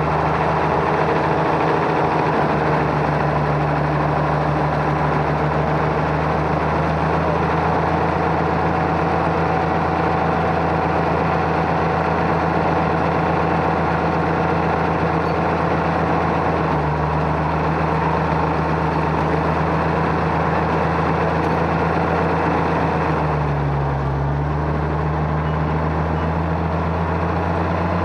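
Tractor engine running steadily at working speed, its note dipping briefly and picking back up about 23 seconds in.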